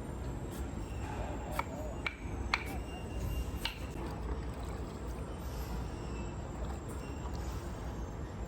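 Steady low rumble of a foundry workshop, with four sharp metal clinks between about one and a half and four seconds in.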